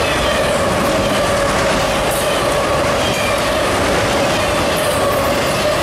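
CSX freight train rolling past close by: a loud, steady rumble of steel wheels on rail with a steady ringing tone over it, and brief high squeals from the wheels about two seconds in and again near the end.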